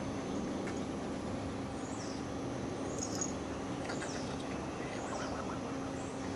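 A bird giving short, high chirps that fall in pitch, about one a second, over a steady low hum.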